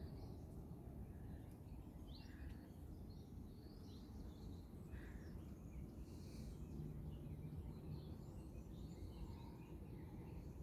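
Small birds giving faint, scattered short chirps and calls over a steady low background rumble.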